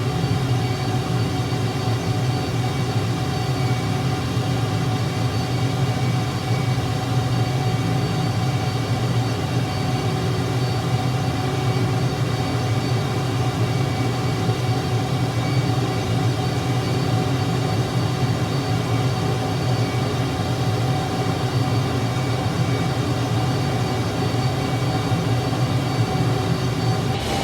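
An engine running steadily at constant speed: a continuous low rumble with several steady tones above it, unchanging throughout.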